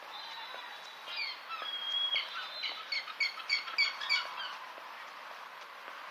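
A small songbird singing: a high, thin held note for about two seconds, then a quick run of repeated chirps, about four a second, that stops a little after the middle.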